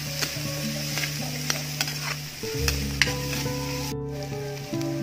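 Sliced onions and chillies sizzling in hot oil in a wide metal pan as a wooden spatula stirs them. It scrapes and taps against the pan several times over a steady frying hiss.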